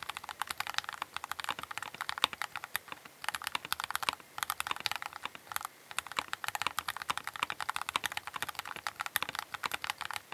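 Fast typing on a Keychron K8 Pro mechanical keyboard, a rapid run of key clicks with two short breaks, about three seconds in and just before six seconds.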